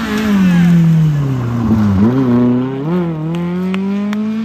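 Historic rally car's engine running hard as it passes, its pitch falling for about two seconds, then climbing again as it accelerates away, with a couple of brief dips like gear changes. A few sharp clicks come near the end.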